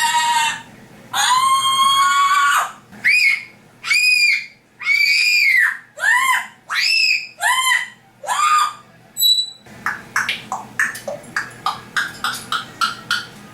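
African grey parrot calling: long, loud whistled screeches, then a run of arching calls that rise and fall in pitch. From about ten seconds in these give way to a rapid series of short clicking chirps, several a second.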